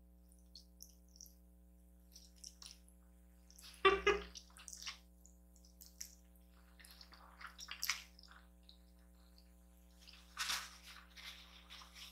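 Close-up eating sounds: light clicks of chopsticks and wet, squishy noodle and mouth sounds, with louder moments about four seconds in and again near the end.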